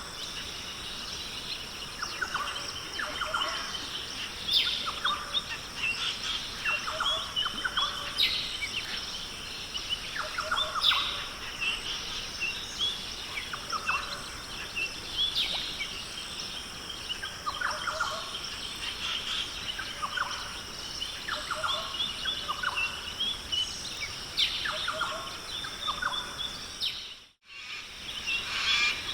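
Rainforest ambience: many birds giving short chirps and calls over a steady high-pitched drone. The sound drops out briefly near the end.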